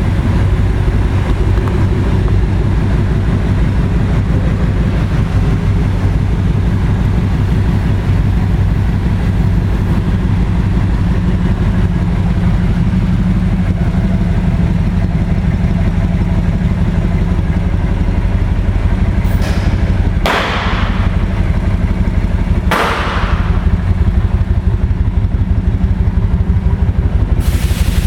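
Kawasaki Vulcan Nomad 2000's big V-twin engine idling steadily with an even low pulse, running well after an easy start. Two brief hissing bursts cut in about twenty and twenty-three seconds in.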